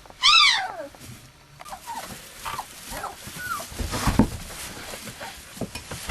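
Four-week-old husky–malamute puppies whimpering: one loud whine that rises and falls just after the start, then several shorter, fainter whimpers, with a few bumps and scuffles around four seconds in.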